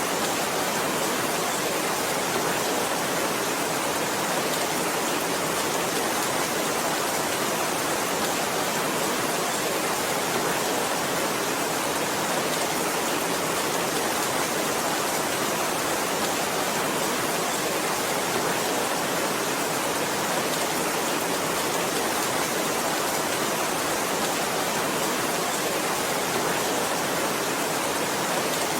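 Heavy rain falling as a steady, even hiss, with no individual drops, thunder or changes standing out.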